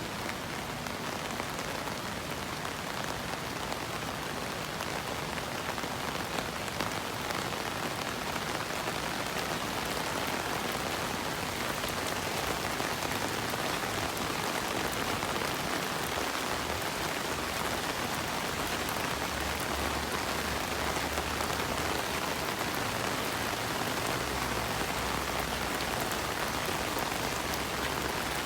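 Steady rain falling and pattering on surfaces, with a low hum in the background in the second half.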